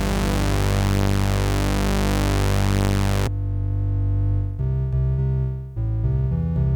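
Behringer JT-4000M synthesizer playing factory preset sounds: a bright, buzzy low note held for about three seconds, then a sudden change to a darker, duller tone playing short low notes that shift in pitch.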